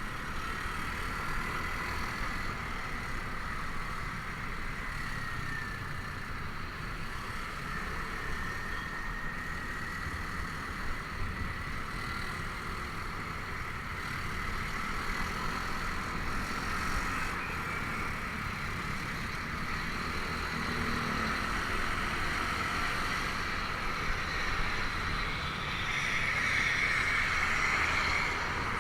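Honda Vario 125 scooter on the move: its single-cylinder engine running steadily under wind and road noise, getting somewhat louder near the end.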